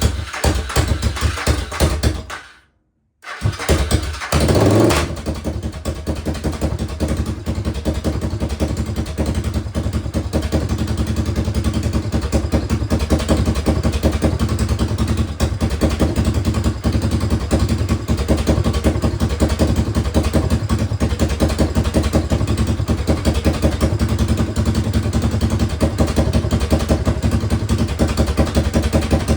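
Suzuki DR650 single-cylinder engine, rebuilt with a 790 cc big bore kit and new exhaust, running on its first start-up. After a short break about three seconds in it revs briefly, then settles into a steady idle.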